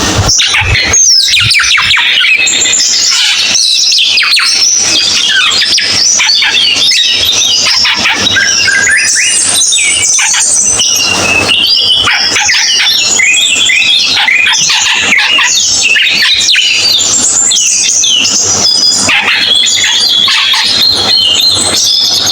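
A cucak keling songbird singing loudly and without pause: a fast, varied stream of chirps, whistled up-and-down glides and harsh squawky notes.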